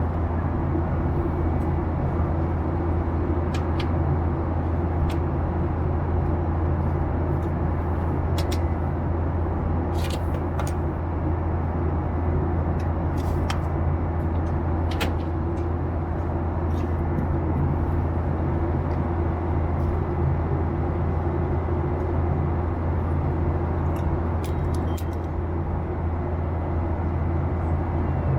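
Steady low hum of a Boeing 737-800's CFM56-7B engines running evenly, heard from inside the passenger cabin, with a few faint clicks and rattles now and then.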